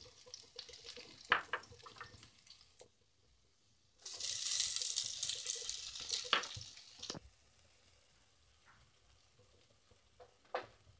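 Onions frying in hot oil in a pan, sizzling and crackling, fading away within about three seconds. After a short break comes a louder sizzle for about three seconds as the spatula stirs, with a few sharp knocks, then only a faint hiss.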